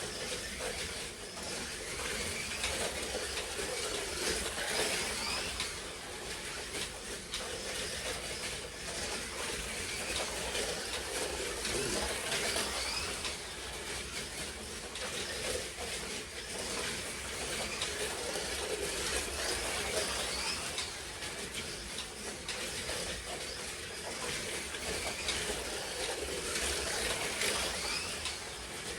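Slot cars lapping a track: small electric motors whining, rising and falling in pitch as the cars accelerate and slow, over a steady hiss of tyres and guide braids on the track. The sound swells and fades every few seconds as the cars pass.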